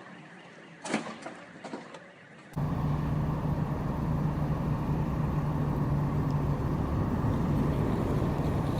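Steady motor-vehicle running noise, a constant low engine hum with road rumble, starting abruptly about two and a half seconds in after a few faint clicks.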